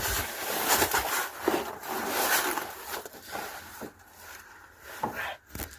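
Rubbing and scraping as a rubber fuel hose is twisted back and forth to break it free of its fitting, loudest at first and tailing off, with a few sharp clicks near the end.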